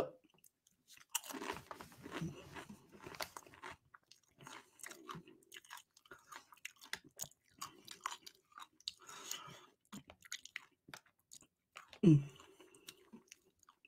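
A person chewing a mouthful of thick buffalo cheese dip close to the microphone, with soft wet mouth clicks throughout. About twelve seconds in, a short hummed "mm" falls in pitch.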